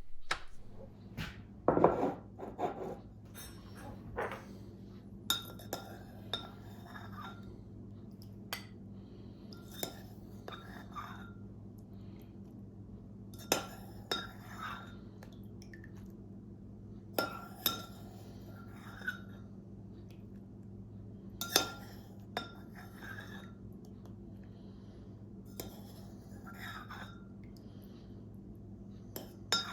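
A metal kitchen utensil clinking against glassware, one sharp ringing clink at a time, about a dozen times at irregular intervals, over a low steady hum.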